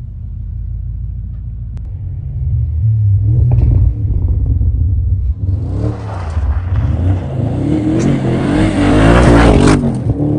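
Audi RS V8 engine revving hard under throttle, getting louder after a couple of seconds, with a rushing noise joining about halfway and the engine pitch climbing near the end.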